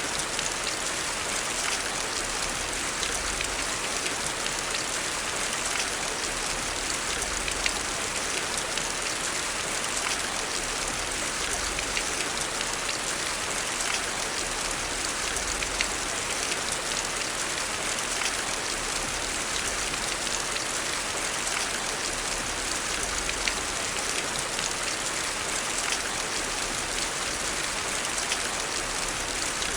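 Heavy rain falling steadily, a dense even hiss of rain with many small sharp ticks scattered through it.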